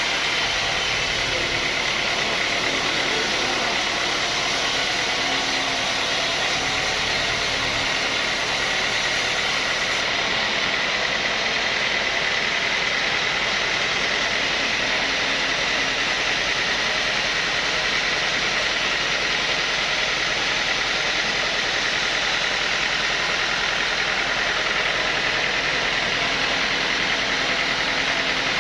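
Sawmill machinery running steadily, a constant mechanical drone with a high whine.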